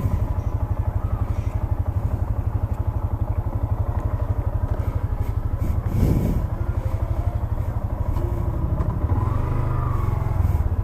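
Motorcycle engine running steadily with a regular low pulsing beat, swelling briefly about halfway through.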